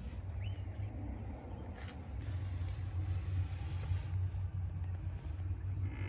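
An engine idling with a steady low rumble, with a stretch of hiss from about two to four seconds in.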